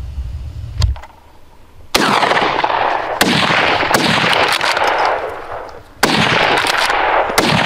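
Hunting gunshots fired at a wild boar: about six shots in two groups of three, the first a couple of seconds in, each followed by a long rolling echo.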